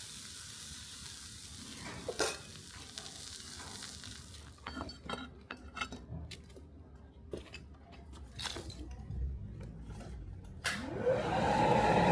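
A steady hiss, then a run of light metallic clicks and knocks. Near the end a power tool's motor starts and spins up with a rising whine that levels off and grows loud.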